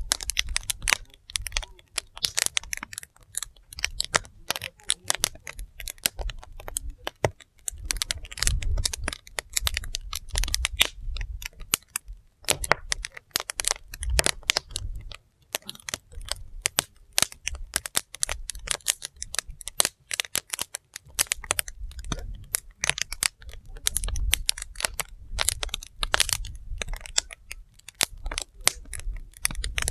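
Wood fire crackling: dense, irregular snaps and pops from the burning logs, over a low rumble that swells and fades every few seconds.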